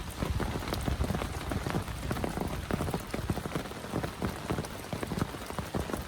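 Heavy rain falling, with many close drops striking in a dense, irregular stream.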